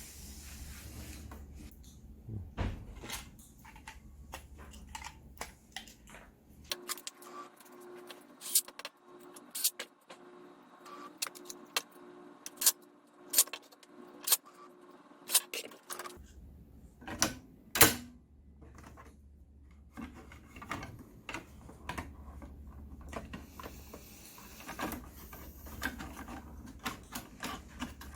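Sharp plastic clicks and knocks, irregular and repeated, from a printhead and ink cartridges being handled and snapped into an HP OfficeJet Pro 8100's carriage.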